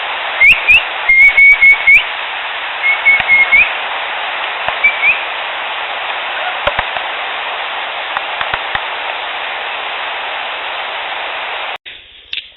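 Field recorder playback: over steady recorder hiss, three clusters of short, high, rising whistled chirps, each paired with sharp snapping pops, then a few faint clicks, before the clip cuts off near the end. The recordist takes these for Sasquatch mouth sounds, the 'snaps and pops'.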